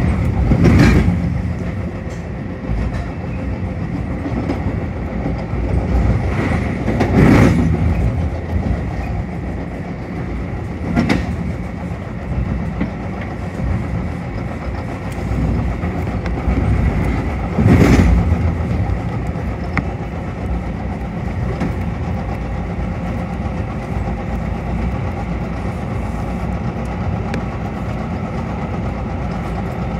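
Metra commuter train rolling along the track, heard from inside its rear cab car: a steady rumble of wheels on rail, broken by a few louder clacks, the loudest about eighteen seconds in.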